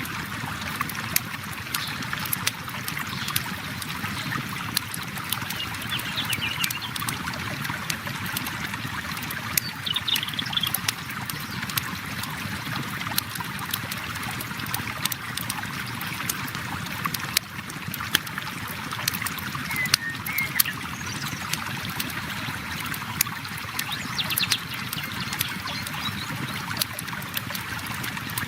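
River water flowing steadily, with a campfire crackling in frequent sharp pops over it.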